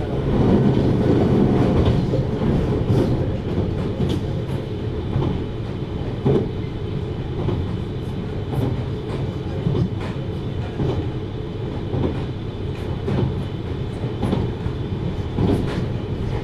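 733 series electric multiple unit running along the track: a steady low rumble with occasional sharp clicks.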